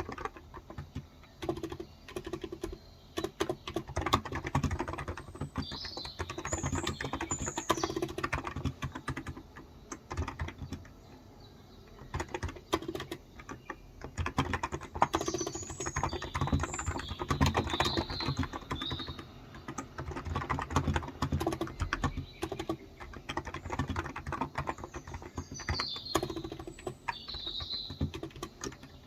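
Steady typing on a Cox Endeavor electrostatic capacitive (35g, tenkeyless) keyboard, with dense key strokes that thin out briefly near the middle. Birds chirp in the background in a few short spells.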